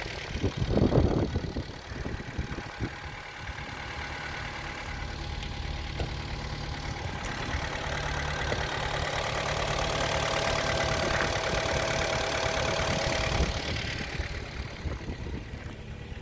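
Kia Sportage's G4KD 2.0-litre four-cylinder petrol engine idling steadily. The sound grows louder with a steady whine through the middle, then eases off about fourteen seconds in.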